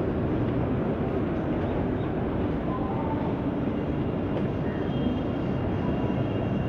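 Suburban electric multiple-unit (EMU) local train coaches rolling past on the tracks, a steady rumble of wheels on rail as the rear coaches go by.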